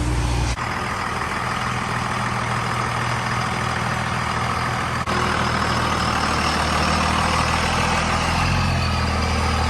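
A vehicle engine running steadily, with abrupt changes in its sound about half a second and five seconds in.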